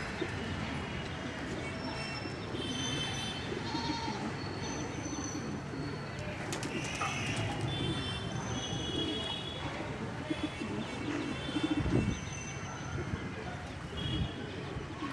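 Homing pigeons cooing, low rolling coos repeated throughout, with short high chirps mixed in. A brief knock about twelve seconds in.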